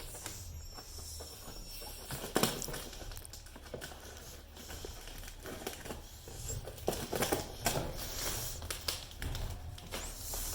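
Cardboard shipping box being opened along its tape lines: tape tearing and cardboard and packing crinkling and rustling, with irregular knocks and clicks, the loudest about two seconds in.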